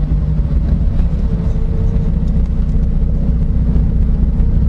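Car engine and road noise picked up by an onboard camera, a steady low drone at parade pace.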